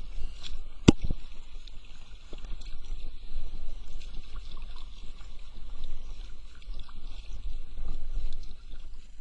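Water sloshing and lapping against a kayak's hull, with one sharp knock about a second in.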